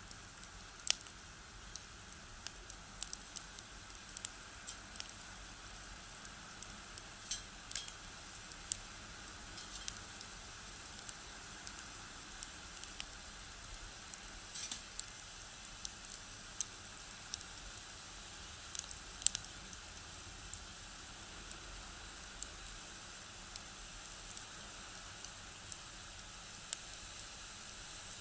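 Firewood burning in a small box stove, popping and crackling in sharp, irregular snaps over a steady soft hiss.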